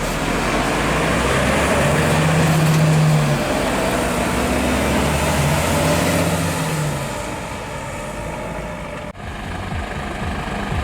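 Heavy truck's diesel engine running, its note swelling between about two and seven seconds in, then easing back, with a brief cut near the end.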